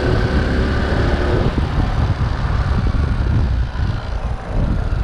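Wind rushing over the camera's microphone while riding a Honda C90 step-through motorcycle, with its small single-cylinder engine running steadily at road speed underneath.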